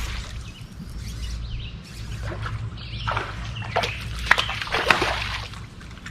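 Birds chirping in short, sharp calls, busiest in the middle of the stretch, over a steady low rumble of wind.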